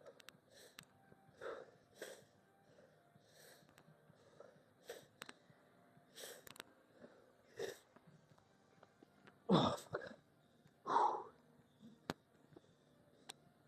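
A man's short, forceful exhalations, roughly one every second, as he breathes hard through a shoulder exercise, with two louder strained exhales near the end. A few sharp clicks sound between them.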